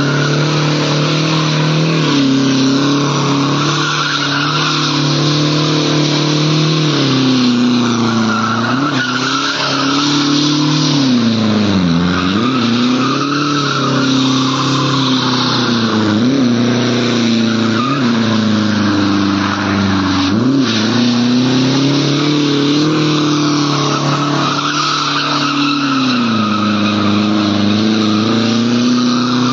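Mercedes-Benz C220 turbo diesel doing a burnout: the engine is held high while the driven tyres spin and squeal. The engine note sags and picks up again several times, most deeply about twelve seconds in.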